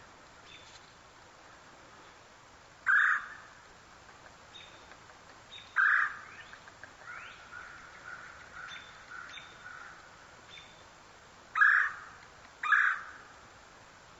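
Birds calling: four loud, harsh calls, two of them about three seconds apart and then a closer pair near the end, with softer chirps and short rising whistles in between.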